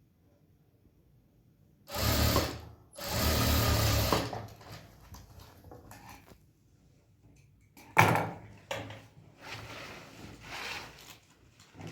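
Sewing machine stitching in two short runs of about a second each, a brief pause between them. A sharp knock follows later, then quieter handling sounds.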